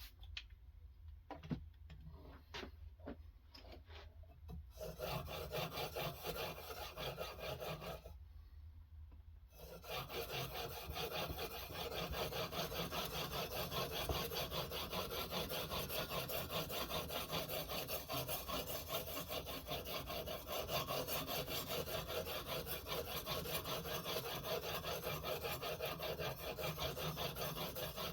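Sharpening stone on a guided knife-sharpening system, stroked rapidly back and forth along a knife edge with a steady rasping scrape. A few light clicks come first; the strokes start about five seconds in, stop briefly, and run on without a break from about ten seconds in.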